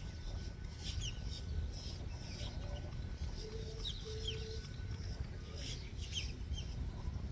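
Birds calling with short, sharp, falling chirps in small clusters about once a second, over a steady low rumble.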